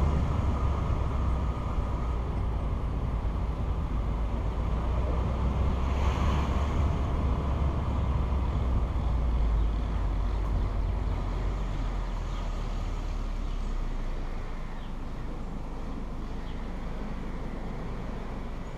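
Steady low rumble of a car on the move, road and engine noise, easing off somewhat in the second half.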